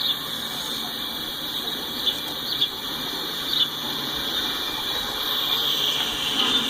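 Steel wheels of a passing double-stack container train squealing against the rails: a steady high screech with a few brief, sharper squeaks over a low rolling rumble.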